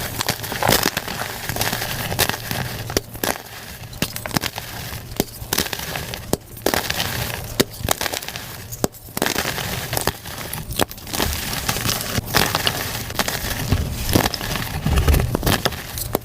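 Reformed gym chalk cakes being crushed and crumbled, a dense run of crunchy crackles and sharp snaps, played back at double speed.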